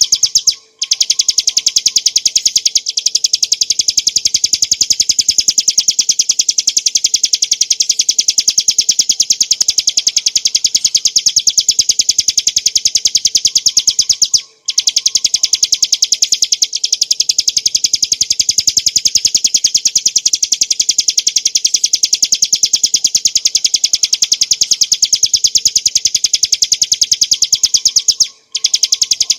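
Bar-winged prinia (ciblek gunung) singing a rapid, unbroken string of high, clear notes in a fast buzzing run (ngebren). The song stops briefly near the start, about halfway through and near the end.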